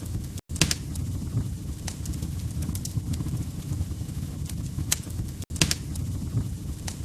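Crackling log fire in a fireplace: a steady low rumble of burning with scattered sharp pops and snaps. The sound cuts out briefly twice, about half a second in and again about five and a half seconds in.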